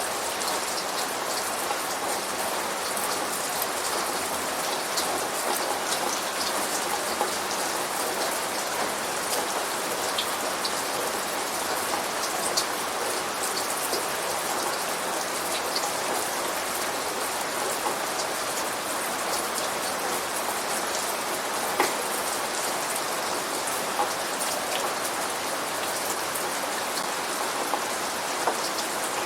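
Steady rain falling on a surface, a dense even patter with scattered sharper drop hits here and there.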